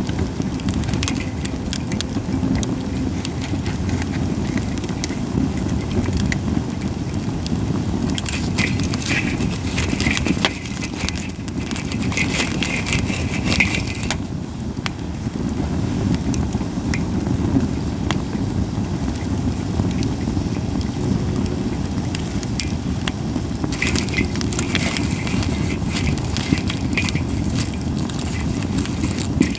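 Campfire of Japanese white pine logs crackling, with frequent sharp pops and two busier stretches of crackling, over a steady low rumble.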